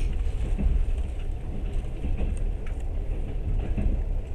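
Train running along the track, heard from aboard: a steady low rumble with a few faint scattered clicks and rattles.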